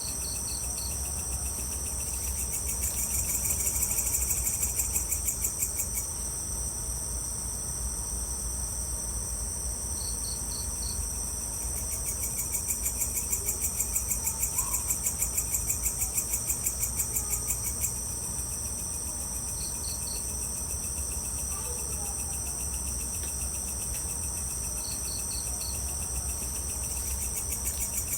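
A chorus of night insects trilling steadily and high, with a louder pulsing trill that swells in for several seconds at a time and then drops back. Short runs of three or four quick chirps come about every five seconds, over a steady low rumble.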